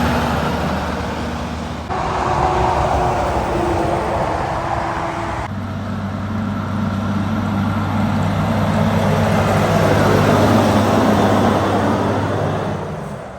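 Heavy trucks driving past on a highway: steady engine drone with tyre and road noise, changing abruptly twice as one passing truck gives way to the next.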